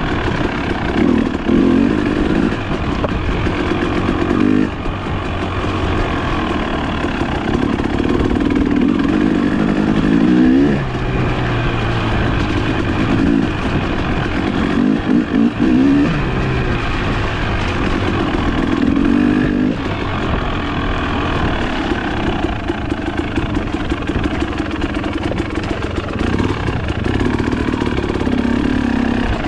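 Trail motorcycle engine running under constantly changing throttle, its revs rising and falling again and again.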